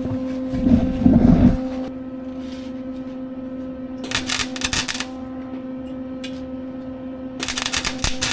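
Lincoln wire-feed welder humming, with a low rumbling knock about a second in, then two short spells of crackling arc as a weld is laid on the exhaust pipe, about four seconds in and near the end. The arc sputters in short bursts, with the voltage set too low.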